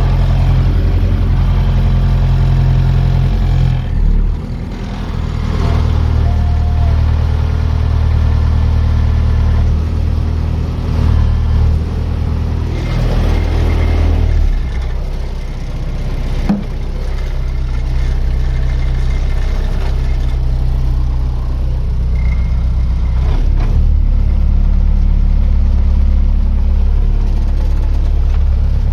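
Tractor engine running with a deep, steady drone, its note shifting a few times, with one short sharp knock about sixteen seconds in.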